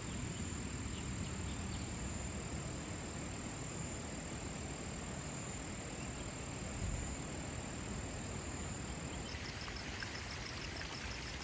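Faint outdoor ambience of insects: a steady high-pitched insect drone that changes, about nine seconds in, to a rapid repeated chirping, over a low steady rumble.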